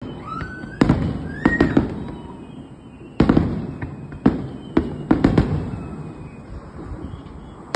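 Aerial firework shells bursting in a fast series of sharp bangs, about nine in all in two clusters, each followed by a trailing echo.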